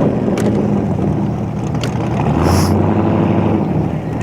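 Car engine running steadily, with a few brief clicks and a short hiss about halfway through.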